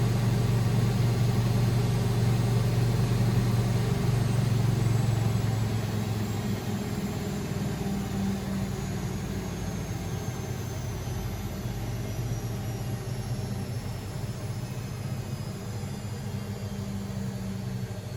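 Beko WML 71433 NP washing machine spinning down at the end of a spin: a steady low hum with a high whine that slowly falls in pitch as the drum slows. It grows quieter from about six seconds in.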